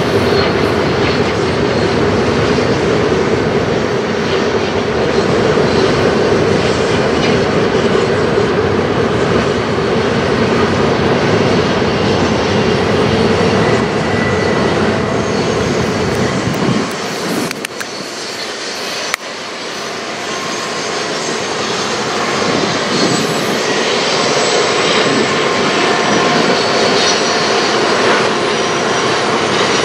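Long CN freight train running through the canyon: a steady drone of diesel locomotives and rolling freight cars. The sound dips sharply about seventeen seconds in, then builds again toward the end as the mid-train distributed-power locomotive approaches.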